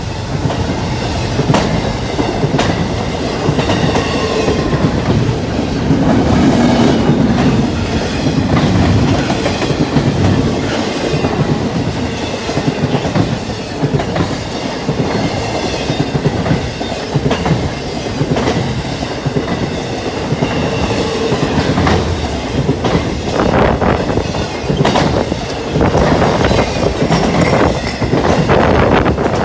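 Cars of a CSX intermodal freight train rolling past, a steady rumble of wheels on rail broken by repeated clicks as the wheels cross rail joints.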